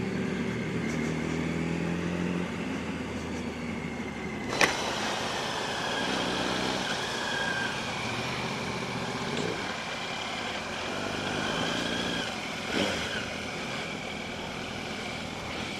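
Yamaha R1's inline-four engine running under way, its pitch shifting a few times, over a steady rush of wind and road noise. A sharp click about four and a half seconds in, and a smaller one near the end.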